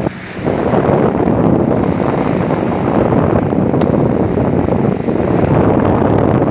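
Wind buffeting the microphone aboard a sailboat, a steady loud rush mixed with the wash of water.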